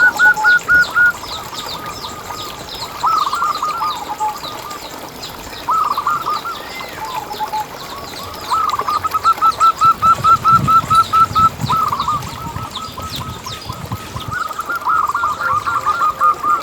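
Zebra doves (perkutut) cooing in runs of quick, rapidly repeated notes, several runs in a row, with fainter high chirping of other birds above.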